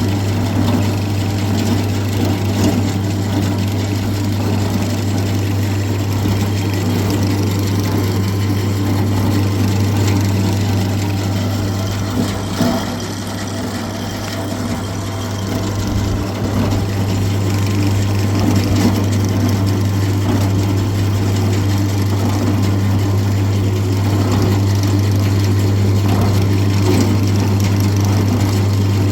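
A motor running steadily with a constant low hum, dipping slightly in level about halfway through.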